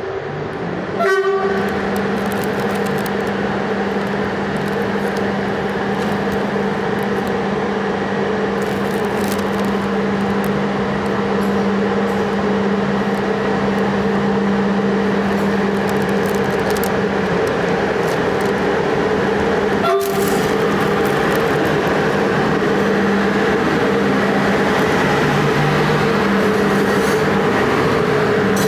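Romanian CFR electric locomotive departing and drawing a passenger train past at low speed, with a steady electrical hum over the rolling rumble, growing louder as it approaches. It sounds a short horn blast about a second in.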